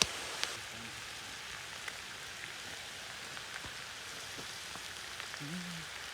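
Meat frying in a pan over a fire: a steady sizzle with scattered small pops and crackles, and a sharp click right at the start and again about half a second in.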